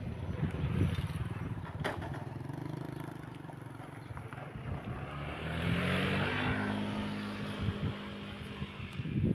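A motor vehicle's engine running, with a passing swell that grows louder about five to six seconds in and then fades.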